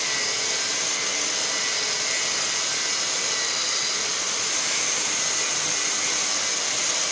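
Grinder cutting mild steel: a steady, loud, high hiss that holds at an even level throughout.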